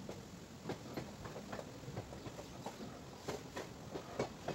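A moving passenger train's wheels and coach clattering over the track: many irregular sharp clicks and knocks over a low rumble.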